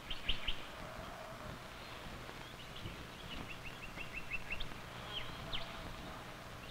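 Faint bird chirps over steady outdoor background hiss: a few short chirps at the start, a quick run of about eight chirps in the middle, then two short downward-sliding notes.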